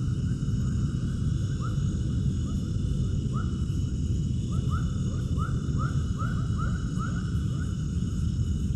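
An animal's short rising calls, repeated in quick runs that come thickest in the middle, over a steady low rumble.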